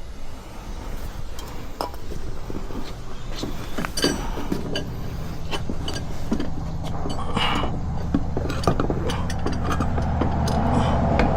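Metal tools clicking and clinking during work on an ATV's rear axle, over a steady low hum that grows louder in the second half.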